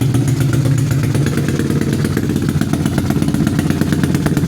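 Yamaha Mio scooter's single-cylinder four-stroke engine, bored out to 155cc for racing, running steadily with a dry exhaust note.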